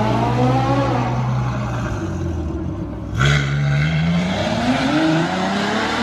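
Ferrari engine with a straight-pipe exhaust, revving hard and climbing in pitch again and again as it accelerates. It eases off for a moment about two seconds in, then a sharp crack comes just after three seconds and the revs climb once more.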